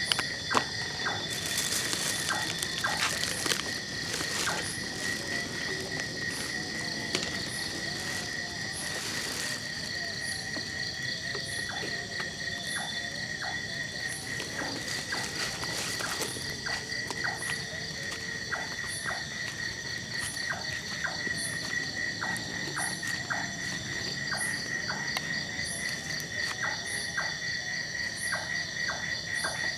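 Night chorus of insects and frogs: steady high insect trilling, a short high chirp repeating about once a second, and scattered clicking frog calls. A few brief hissing bursts come in the first few seconds and again around ten and sixteen seconds in.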